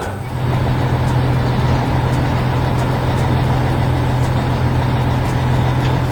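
Heavy truck engine running steadily with a deep, even hum, starting just after the beginning and cutting off at the end.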